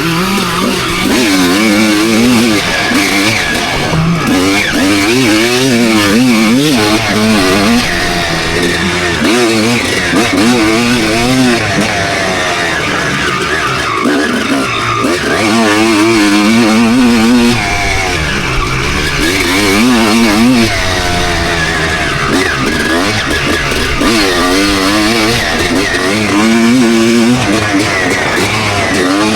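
2001 Suzuki RM250's single-cylinder two-stroke engine being ridden hard, its pitch climbing and dropping over and over as the throttle is opened and shut.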